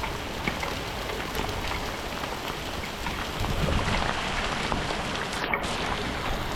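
Steady hiss of rain falling on standing water, with many small scattered patters.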